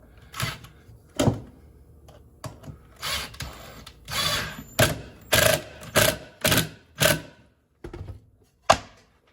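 About a dozen sharp knocks and thunks at uneven intervals, with a couple of short scraping noises in between, from hand work on a wooden board.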